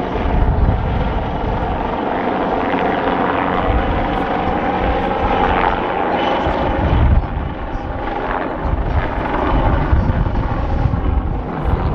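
A steady engine drone with a pulsing low rumble, without clear rises or falls in pitch.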